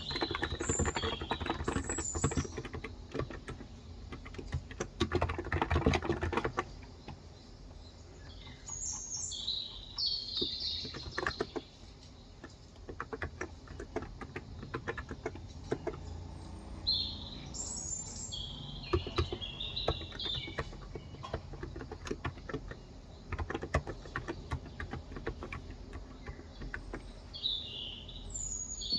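Typing on a Cox Endeavor electrostatic capacitive (35 g) tenkeyless keyboard: a fast, dense run of keystrokes for the first several seconds, then sparser bursts. Short bird chirps come and go in the background.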